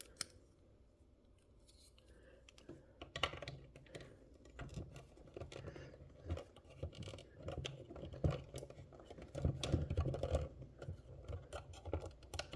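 Small plastic toy-fridge parts being handled and pushed into place: irregular light clicks, taps and scrapes, starting about two seconds in after a short silence.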